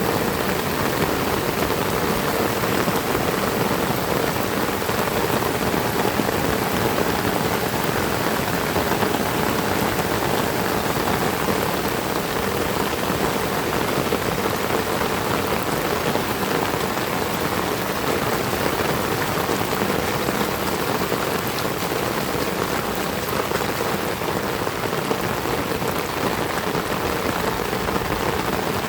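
Heavy rain falling steadily, with raindrops pattering on surfaces in a dense, even hiss that holds at the same level throughout.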